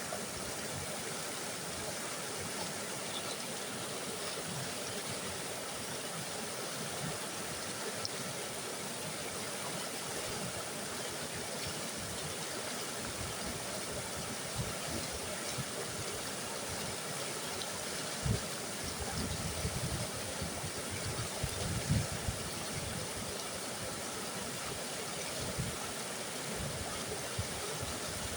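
Mountain river rushing, a steady roar of water with occasional low thuds and gurgles, the strongest about two-thirds of the way through.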